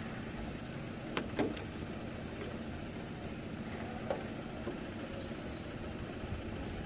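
Steady rumble of storm wind and rain, with a few sharp ticks about a second in and again near four seconds.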